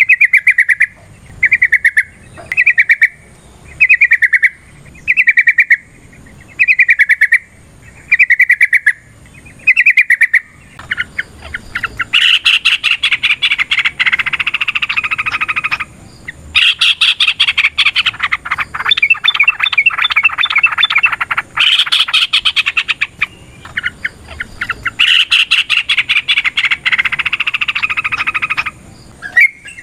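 Yellow-vented bulbul singing: about nine short, evenly spaced phrases roughly once a second, then, about ten seconds in, a long rapid run of chattering notes that goes on with a few short breaks.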